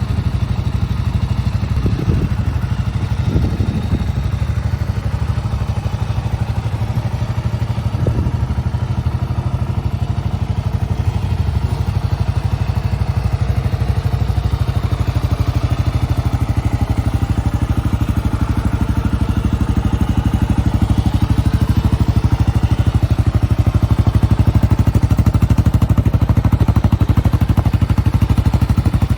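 Kawasaki KLR 650's single-cylinder engine idling with a steady, even beat, with a few brief blips of the throttle in the first eight seconds.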